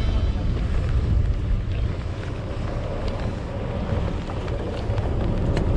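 Wind buffeting the microphone on a boat at sea, a heavy, fluctuating low rumble with the boat's running and water noise under it.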